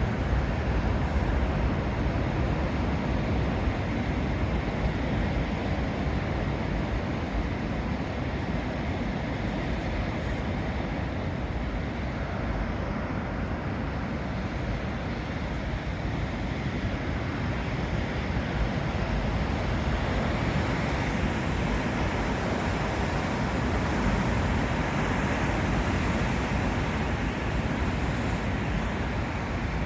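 Sea surf washing against a rocky coastline: a steady rushing with a deep low rumble, swelling slightly now and then.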